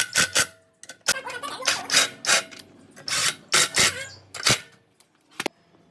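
A run of irregular rasping strokes, like a file or scraper worked by hand on a hard surface, about one or two a second with short pauses between.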